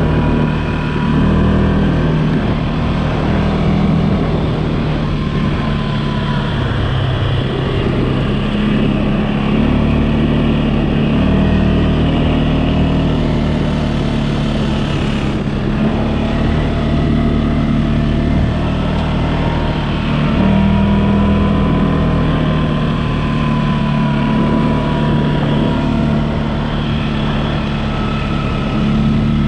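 CFMOTO ATV engine running steadily under way, its note rising and falling a little with the throttle.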